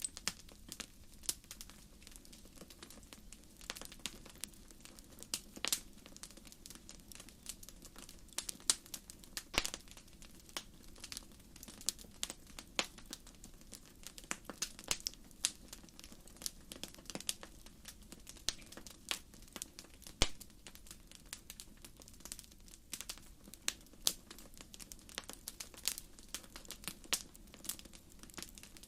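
Wood fire burning, with firewood crackling and popping in irregular sharp clicks, some louder than others, over a faint steady low rush.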